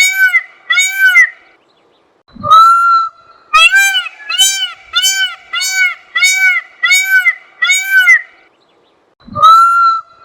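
Indian peafowl (peacock) calling loudly in runs of short, arched, honking calls, about two a second. Twice, a run is started by a longer call that sweeps up in pitch.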